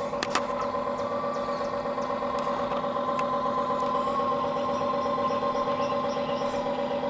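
Engine-like sound idling steadily, a pitched hum with a fast even pulse, with two sharp clicks shortly after the start.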